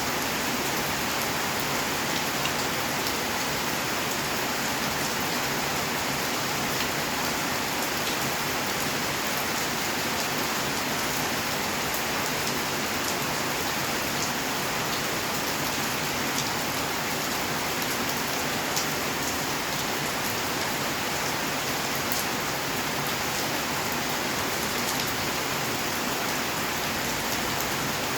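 Steady rain falling on outdoor surfaces, an even hiss with scattered individual drop ticks.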